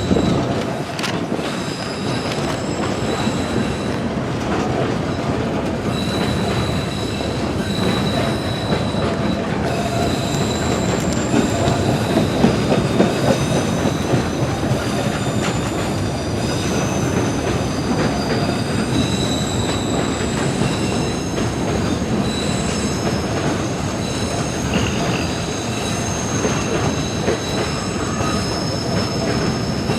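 A train running past on the rails with a steady rumble and clatter. Its wheels squeal in several thin, high tones that shift and come and go throughout.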